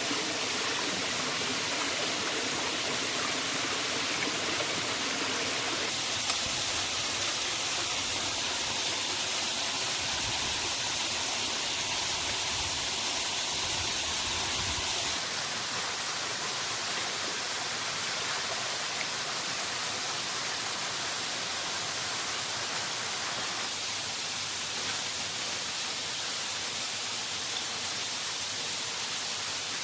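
Steady rushing of a waterfall: an even, hissy roar of falling water with no distinct events, its tone shifting abruptly a few times.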